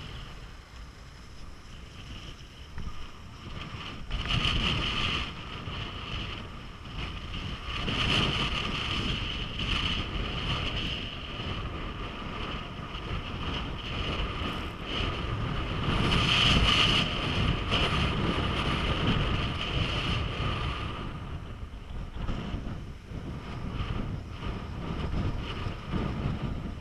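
Wind buffeting the microphone in gusts, a low rumble with a rushing hiss that swells and eases, loudest about four seconds in and again past the middle.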